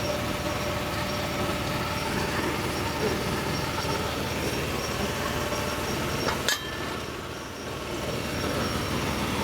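Steady mechanical running noise with faint steady tones, broken by a sharp click and a brief drop in level about six and a half seconds in.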